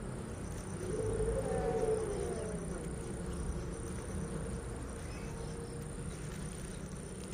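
Cats fighting: a low, drawn-out growling yowl that rises and falls about a second in, trailing off into a faint held moan. A steady high-pitched whine runs underneath.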